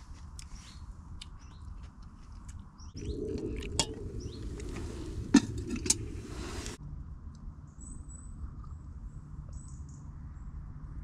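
Small birds chirping in the trees, with short chirps at first and thin, high calls near the end. In the middle come a few seconds of close rustling handling noise with three sharp clicks.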